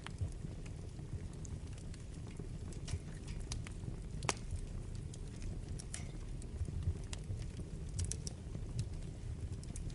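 Wood fire in a fireplace burning with a steady low rumble and scattered sharp crackles and pops, the loudest pop about four seconds in.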